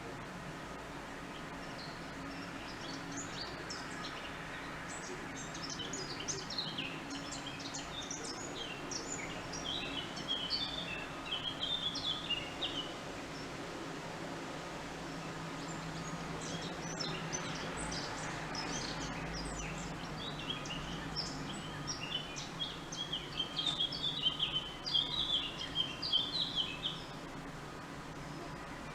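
A songbird singing two long, quick twittering phrases of high chirps, each ending in a dense warble, over a steady outdoor background hum.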